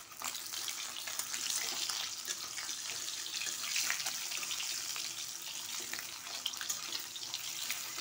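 Scored boiled eggs frying in hot mustard oil in a kadai: a steady sizzle with fine crackles as they are turned over.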